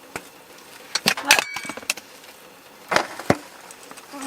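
Spoon clinking against a metal dish while eating: a few sharp clinks, with a short metallic ring about a second in and two more clinks near three seconds.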